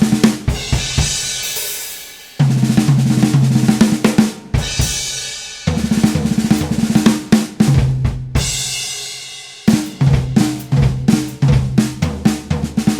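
Drum kit with the snare drum featured, played in repeated fast fills. Each fill ends on a cymbal crash that rings out and fades, three times, before the next fill starts.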